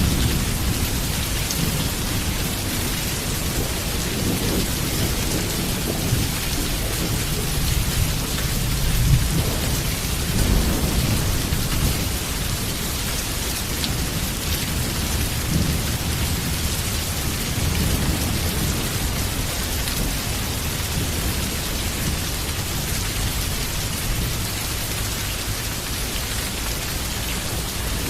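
Heavy rain falling steadily, with low rolling thunder rumbling underneath. The thunder swells louder about nine to eleven seconds in.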